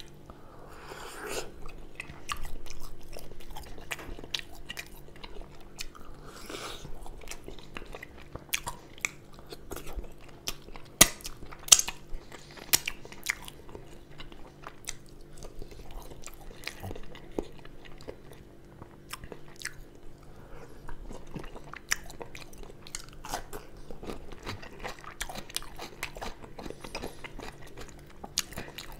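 Close-miked chewing and biting of sauced chicken cutlets and fried potato wedges, eaten by hand: wet mouth sounds with many sharp clicks, a few loud ones about eleven to twelve seconds in. A faint steady hum runs underneath.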